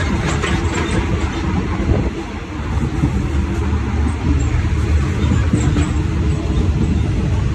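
Sleeper train running: a steady low rumble with light clicks and rattles.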